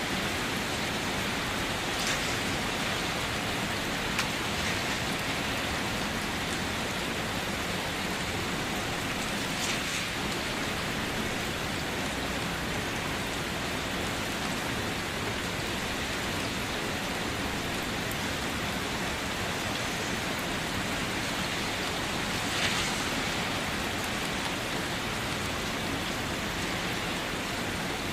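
Steady rain falling, an even hiss, with a few single louder drops standing out now and then.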